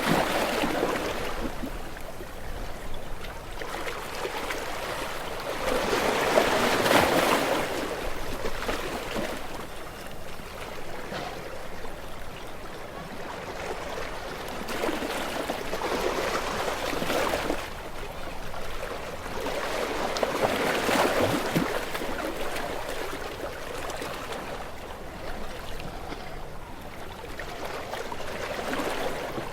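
Gentle waves breaking and washing up a shore, each surge of surf swelling and falling away, one every several seconds.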